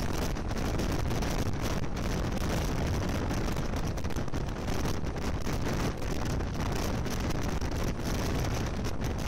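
Steady rumble of a moving train heard from an open window, with wind buffeting the microphone.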